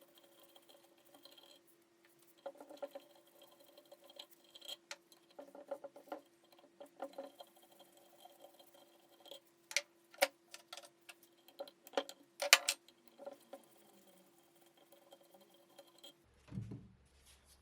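Scattered light clicks and clinks of hand tools and small metal parts being handled during workshop disassembly, loudest about ten and twelve seconds in. A faint steady hum runs underneath and stops near the end.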